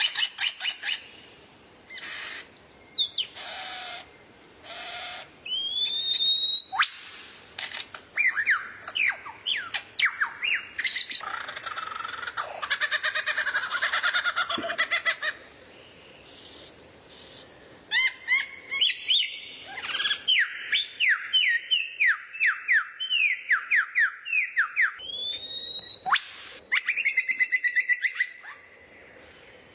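Recorded songbird song: runs of quick downward-slurred whistles, a dense chattering stretch in the middle, and a few upward-rising whistles.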